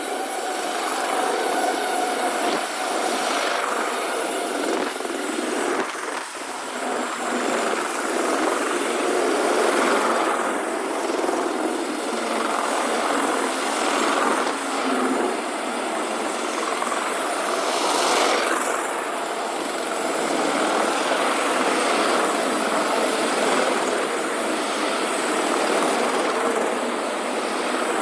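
Long CSX freight train's cars rolling past, a steady rush of wheels on rail with a sharp clank about 18 seconds in.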